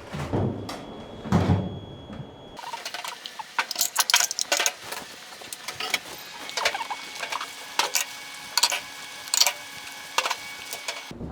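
Irregular sharp clicks and knocks of things being handled and set down, a few every second.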